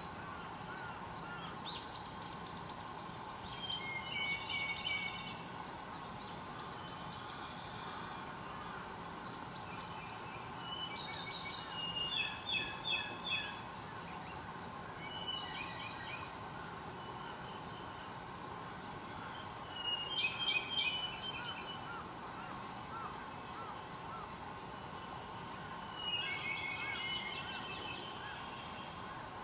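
Wild songbird singing short phrases of quick repeated notes, one phrase every several seconds, over a steady background hum.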